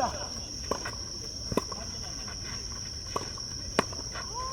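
Tennis ball being struck by rackets and bouncing on the court, four sharp hits spread unevenly through the rally. A steady high-pitched insect buzz runs underneath.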